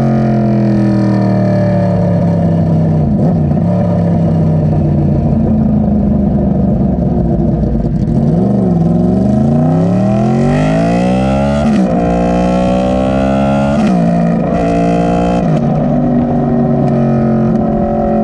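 Yamaha R1 inline-four engine running through its freshly repacked GYTR exhaust while riding. Its pitch sags at first, rises steadily as it accelerates, then drops sharply with a gear change, holds, and drops again twice more.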